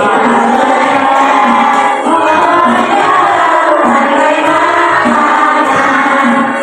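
A class of schoolchildren singing a song together in unison, loud and continuous.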